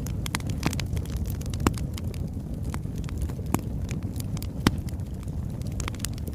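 Oak logs burning in a fireplace: a steady low rumble of flame with irregular sharp crackles and pops, three of them standing out louder, at about a second and a half, halfway and three quarters of the way through.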